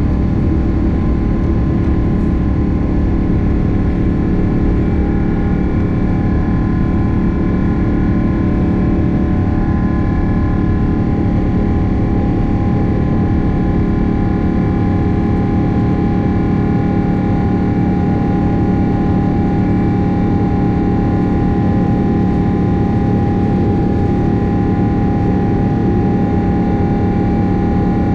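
Boeing 777-300 jet engines and airflow heard inside the passenger cabin: a steady, loud rush with a few steady whining tones over it, the higher tone growing a little stronger past the middle.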